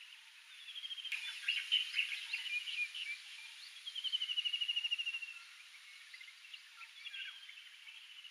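Small wild birds chirping in scrub, with a fast, slightly falling trill about four seconds in that lasts just over a second, and another trill starting near the end.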